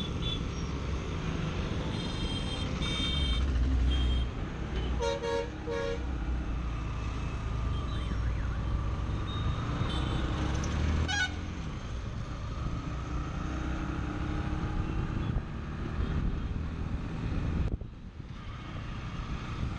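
Bajaj Pulsar NS160's single-cylinder, oil-cooled 160 cc engine running under way in traffic, its pitch rising and falling as the bike speeds up and slows. Vehicle horns honk briefly a few times, about two and five seconds in.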